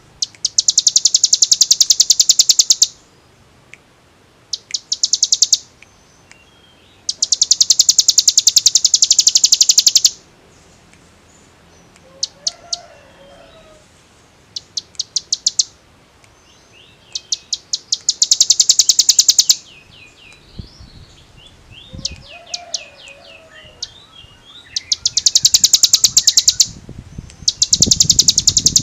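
Hill prinia (ciblek gunung) singing in repeated rapid, high, drill-like trills of one to three seconds each, with softer chirping notes in between. The bird is in full song (gacor).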